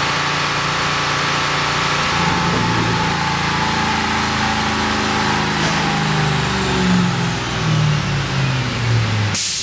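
Ford Mustang engine running on a chassis dyno: steady at first, then rising in pitch under load from about two seconds in and falling back in steps. A short sharp burst of noise comes just before the end.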